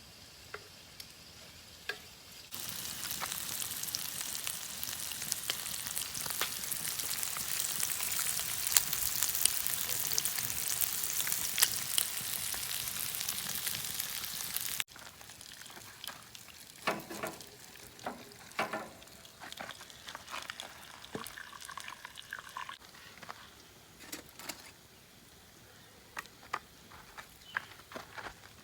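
Food sizzling and crackling in a cast iron skillet over a campfire. The sizzle starts sharply a couple of seconds in and cuts off abruptly about halfway through, leaving scattered light clicks and knocks.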